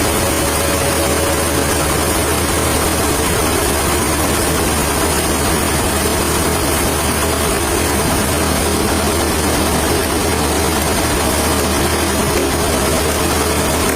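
A machine engine running steadily, holding the same pitch and level throughout.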